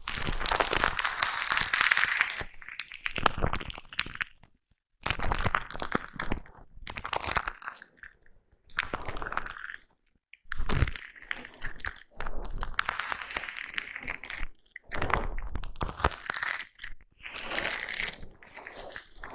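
Foam brush rubbed and brushed directly over a microphone: a close, full-range rubbing noise in uneven strokes of one to three seconds, with short silent gaps between them.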